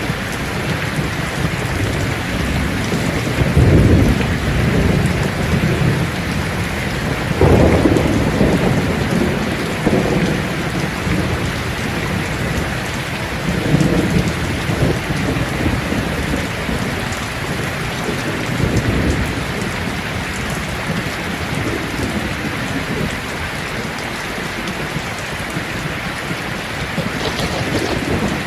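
Steady rain falling on leaves, a dense even patter. Deep low rumbles swell up and fade several times, the strongest about 4 and 8 seconds in.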